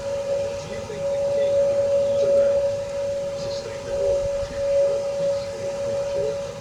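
Jet engines of an airliner on approach, a steady high whine over a low rumble.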